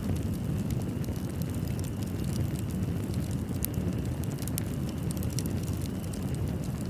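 Fireplace fire burning with a steady low rumble and scattered sharp crackles and pops of burning wood.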